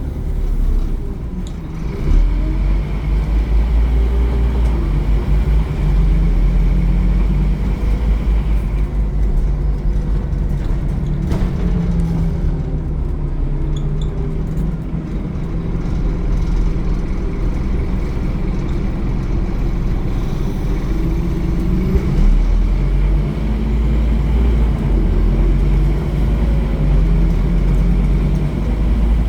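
Scania N230UD Omnicity double-decker bus's five-cylinder diesel engine pulling under way, its pitch climbing and dropping again several times as the bus accelerates and shifts through the gears, over a steady low rumble.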